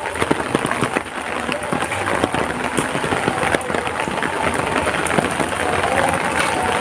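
Heavy rain falling steadily: a dense, even hiss dotted with many distinct close drop impacts.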